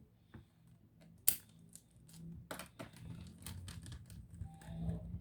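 Laptop being handled: a run of sharp plastic clicks and taps, the loudest about a second in, over a low hum that comes up about two seconds in.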